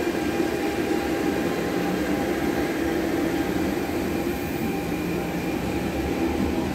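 MTR Tung Chung line train approaching the platform, its low rumble growing over the last couple of seconds over a steady platform hum.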